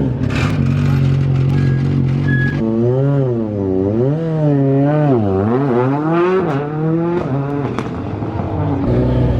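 Rally car engine idling, then revved up and down several times from about two and a half seconds in, before settling back to a steady idle near the end.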